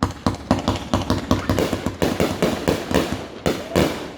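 Fireworks going off in a rapid run of sharp cracks and bangs, several a second, one after another without a break.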